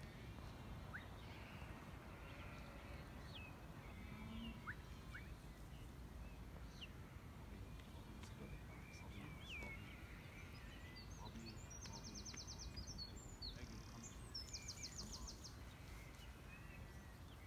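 Faint outdoor birdsong: short chirps and whistles from several birds scattered throughout over a low steady rumble, with two rapid high trills about two-thirds of the way through.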